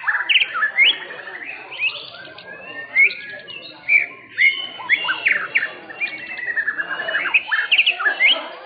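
White-rumped shama (murai batu) singing: a fast, varied string of sharp whistled notes and chirps sweeping up and down, with a falling run of notes near the end.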